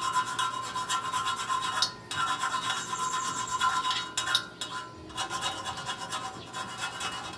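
The rough cut edge of a shortened steel motorcycle muffler being sanded smooth: a continuous rasping rub that breaks off briefly a few times.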